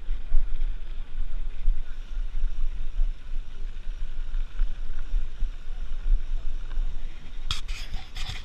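Wind buffeting a camera microphone on a moving mountain bike: an uneven low rumble with hiss above it. Near the end comes a quick cluster of sharp clattering knocks.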